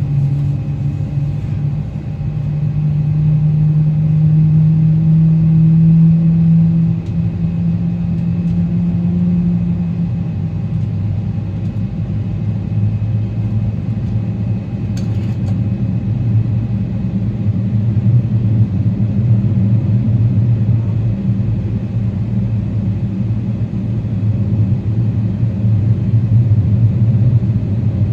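Cabin rumble of a Boeing 777-300ER's GE90 engines, heard from inside the aircraft as it moves on the ground. A low engine hum rises slightly over the first ten seconds, then settles into a steady, lower drone. There is one faint click about halfway through.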